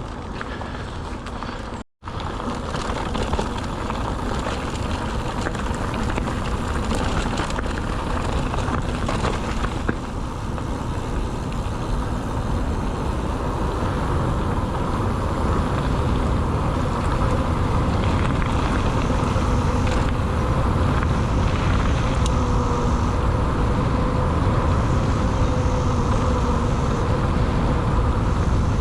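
Steady rumble and rush while riding a mountain bike along a track: wind buffeting the bike-mounted or body-worn camera microphone over the tyres rolling on the ground. The sound cuts out for a moment about two seconds in.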